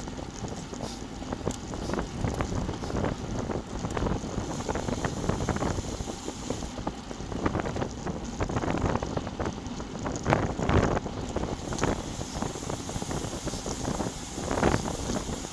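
Wind buffeting the microphone of a bike-mounted action camera while riding a road bicycle at speed, a gusty rushing noise that swells and drops, with brief louder gusts near the middle and near the end.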